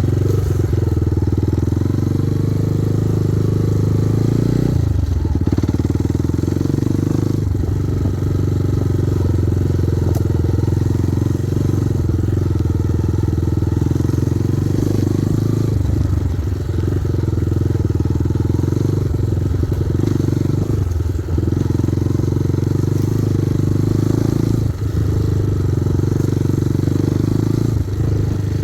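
Kovi Advance 250 enduro motorcycle engine running under way, with its exhaust note dipping briefly about half a dozen times as the throttle eases or gears change.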